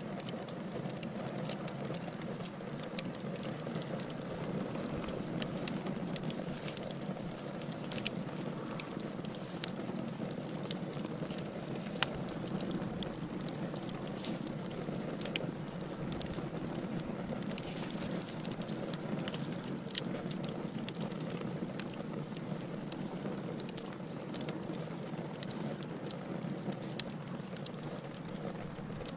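Wood fire burning in a fireplace: a steady low rush of flames with frequent sharp crackles and pops, one louder pop about twelve seconds in.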